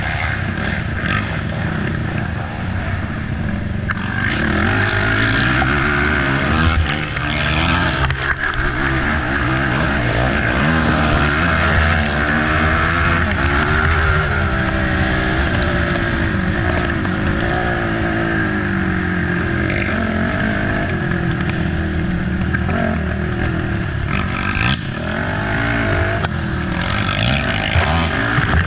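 Race ATV engine running hard, revving up and down again and again as the throttle opens and closes through the trail, with a few sharp knocks and scrapes over rough ground.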